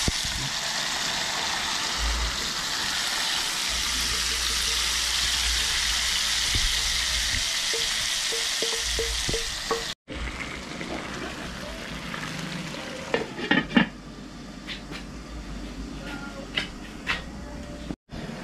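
Food frying in a hot pan: a loud, steady sizzle for about ten seconds, then, after a cut, quieter sizzling with a few sharp clinks of a utensil against the pan.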